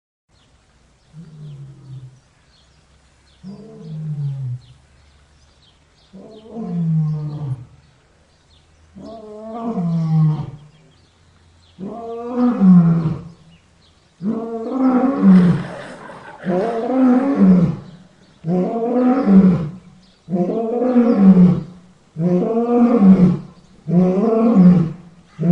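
A large animal's roaring calls, about a dozen in a row, each falling in pitch. They start soft, grow louder, and come faster toward the end.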